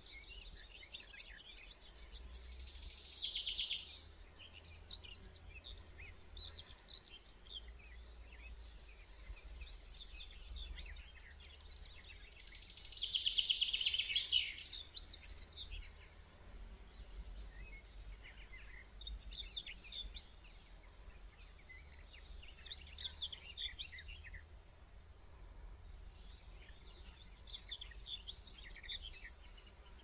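Birds chirping and twittering on and off throughout, with two louder bursts of rapid, dense chatter about three seconds in and again around thirteen seconds. A steady low rumble runs underneath.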